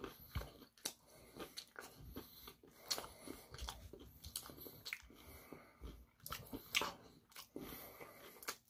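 A person chewing crunchy fried food close to the microphone, with a scatter of short, crisp, irregular crunches.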